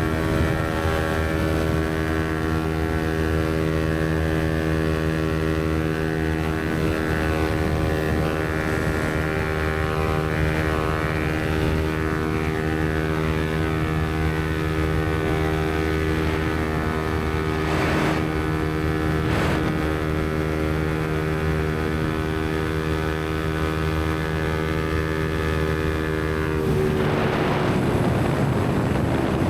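Yamaha MT-125's single-cylinder four-stroke engine, through an aftermarket Black Widow exhaust, running at steady revs while the bike cruises. Near the end the engine note drops off and is overtaken by a rush of wind noise.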